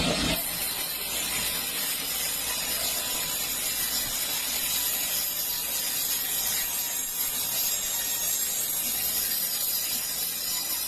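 Sawmill saw cutting through a large log: a steady, hissing noise that holds evenly throughout.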